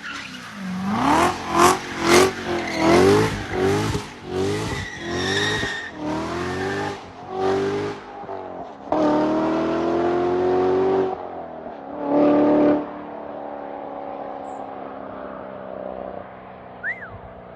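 Performance car engine being free-revved: a quick series of rev blips rising and falling, then a rev held high for about two seconds, one more short rev, and then settling to a steady idle.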